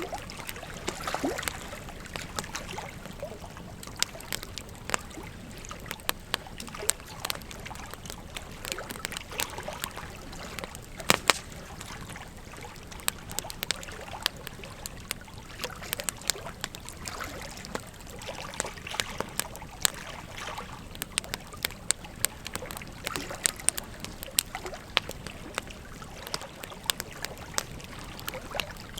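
Wood fire crackling with frequent sharp pops, the loudest about eleven seconds in, over the steady rush and gurgle of a flowing river.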